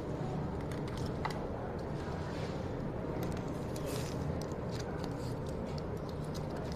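A person eating, with a few faint soft clicks over a steady low background rumble.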